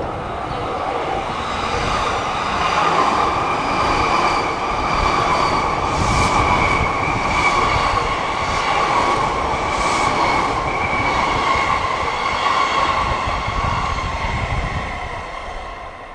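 A JR Keihin-Tohoku Line E233-series electric commuter train passing close by: steady rolling noise with a high, even whine and a run of regular clacks from the wheels over rail joints. The sound fades over the last couple of seconds.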